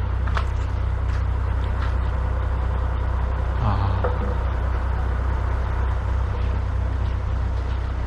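Large diesel truck engine idling steadily, a low even rumble, with a few faint clicks over it.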